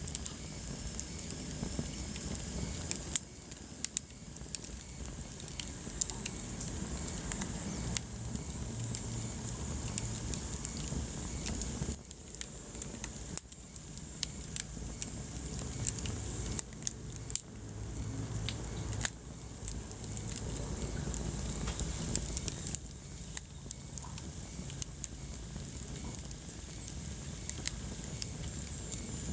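Wood fire burning in a fireplace: a steady low rumble and hiss from the flames, with frequent irregular crackles and pops.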